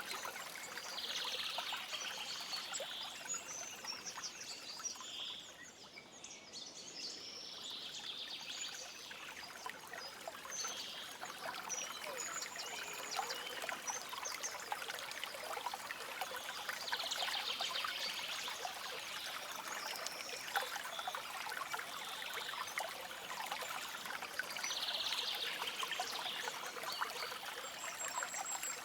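Stream water trickling and babbling steadily, with faint bird chirps now and then. It dips briefly softer about six seconds in.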